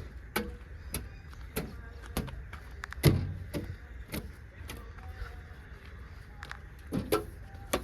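Toy tractor and loader being handled, giving a string of sharp plastic clicks and knocks, irregularly spaced at about one or two a second, the loudest about three seconds in.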